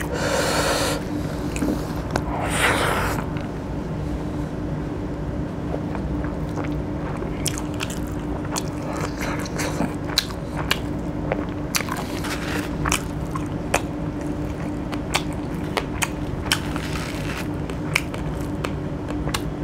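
Close-miked eating sounds: a person chewing and biting food, with many short, sharp wet clicks and smacks of the mouth, over a steady low hum.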